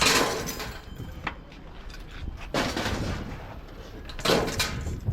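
Heavy pieces of scrap metal being thrown down, three hard impacts about one and a half to two and a half seconds apart, each with a short ringing tail; the first is the loudest.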